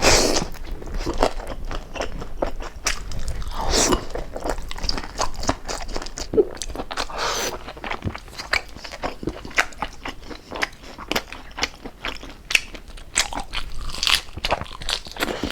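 Close-up chewing of crispy deep-fried pork jowl: dense, irregular crackling crunches of the crisp skin, with a few louder bites.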